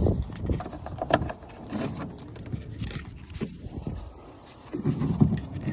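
Scattered clicks, taps and low knocks of hands working on a Daihatsu Move's car door and its interior trim, going quieter a little past the middle and picking up again with a cluster of knocks near the end.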